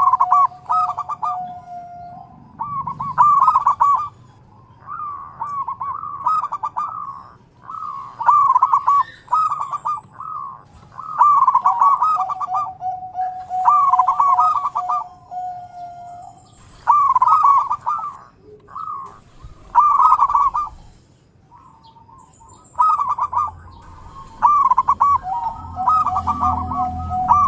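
Zebra doves (perkutut) cooing in repeated phrases of quick rolling notes, each phrase a second or two long with short gaps between them. A brief pause comes a little after twenty seconds in, and a thin high whistle sounds twice.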